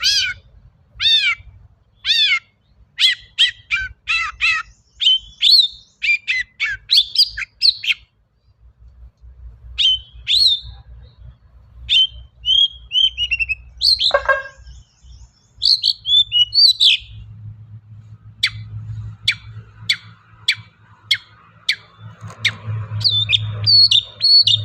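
Long-tailed shrike (cendet) singing a fast, varied song of sharp chirps and steeply falling whistled notes, with mimicked phrases of other birds mixed in, broken by a short pause and by one long downward-sliding note near the middle. A steady low hum runs underneath and gets louder near the end.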